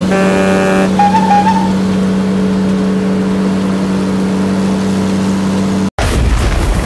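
A steady engine-like drone. It opens with a brief horn-like chord and a short warbling beep. It cuts off suddenly near the end and gives way to a low rumbling boom.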